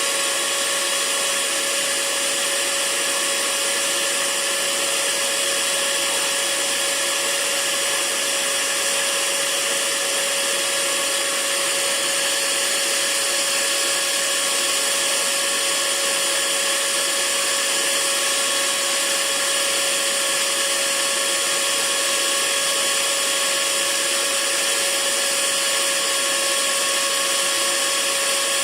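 Hair dryer running steadily: an even rush of blown air with a constant motor hum.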